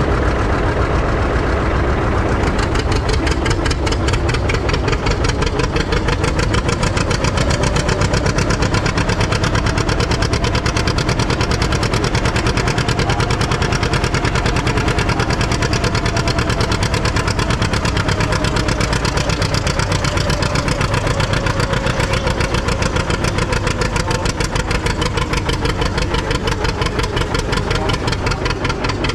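Antique farm tractor engine running hard under load, most likely pulling the weight sled, with fast, even firing beats. A faint tone in the engine sound slowly rises and then sags back over the pull.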